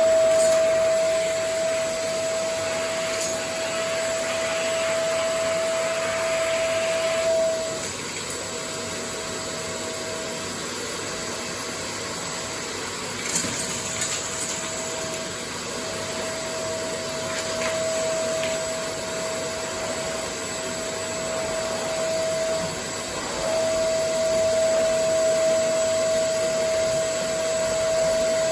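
Vacuum cleaner running: a steady motor whine over the rush of air, the whine weakening and dipping several times before holding steady again. There is a brief knock about halfway through.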